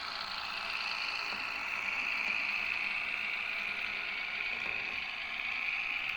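Märklin H0 model train running steadily along the track, a continuous high mechanical whir from the small motor, gearing and wheels on the rails.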